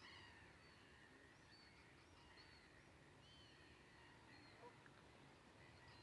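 Near silence with faint, distant bird calls: scattered short chirps and curved call notes, and a single soft tap about three-quarters of the way through.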